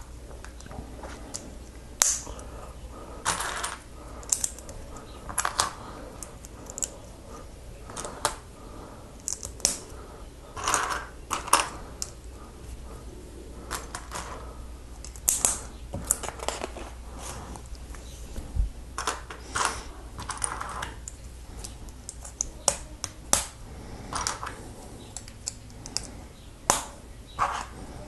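Small plastic Lego pieces being picked up and pressed together: irregular light clicks and short rattles.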